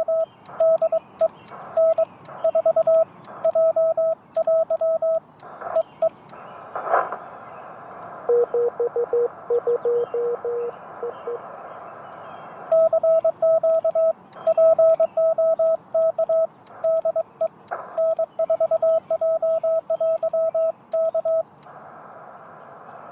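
Morse code (CW) through an amateur radio transceiver, likely a Yaesu FT-891: the operator's own sending as a loud sidetone beeping on and off in quick dots and dashes, with a fainter, lower-pitched Morse reply from another station about eight to eleven seconds in. Steady receiver hiss runs underneath, with a short static crash about seven seconds in.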